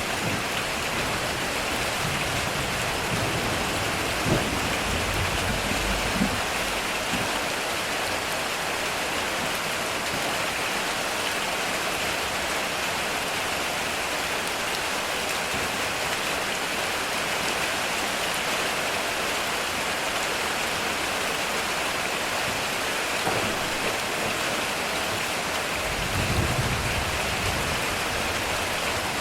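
Heavy rain falling steadily on a metal roof, with low rumbles of thunder in the first several seconds and again near the end.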